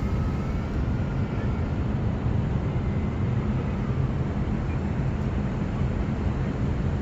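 Twin brushless electric motors of an E-flite Ultrix RC delta-wing plane whining faintly, fading out over the first second or two, under a steady low rumble.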